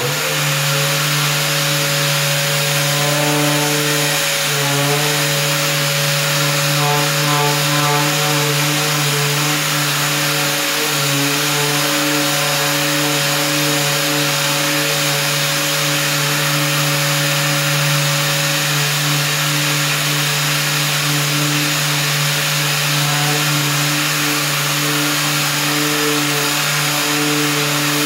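Orbital sander with 150-grit paper spinning up, then running steadily as it sands the paint and clear coat off a plastic car bumper, with a steady motor hum under the hiss of the abrasive.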